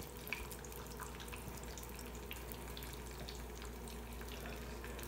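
Scallion pancake batter sizzling faintly in hot vegetable oil in a nonstick frying pan, with small scattered crackles.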